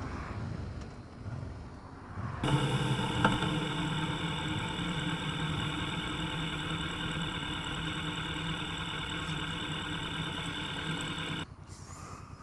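Motorcycle engine idling steadily after pulling over, then cutting off suddenly near the end.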